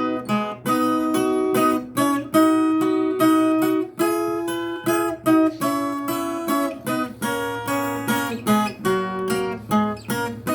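Viola caipira playing an instrumental passage of quick plucked notes and strummed chords, each note ringing briefly before the next.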